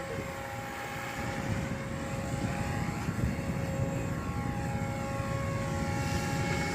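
Electric motor and propeller of a radio-controlled model aircraft whining steadily in flight, several steady tones, with wind noise rumbling on the microphone.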